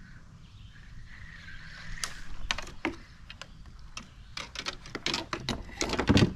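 A run of sharp knocks and clatters of gear being handled in a kayak, irregular and starting about two seconds in, with the loudest, heaviest knock near the end.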